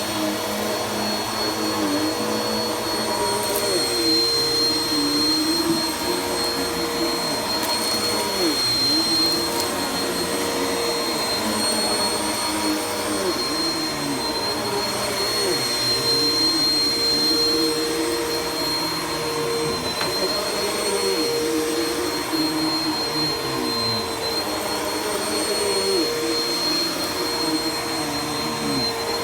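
Vacuum cleaner running steadily: a constant high whine over a rushing hiss, with a lower hum that dips briefly in pitch every few seconds.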